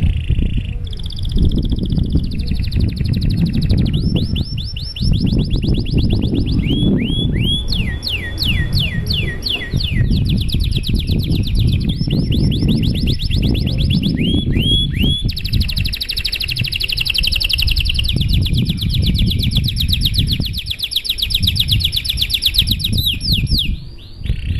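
Domestic canary singing a long unbroken song of fast trills and rolls: runs of repeated notes, some sweeping downward in pitch, and a long rapid trill through the second half. A steady low rumble runs underneath.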